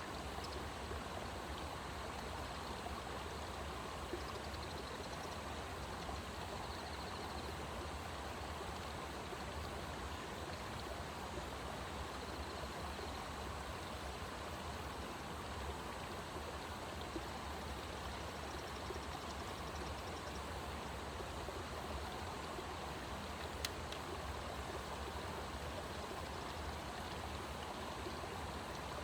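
Steady rush of running water, like a stream, unchanging throughout, with one sharp click about 24 seconds in.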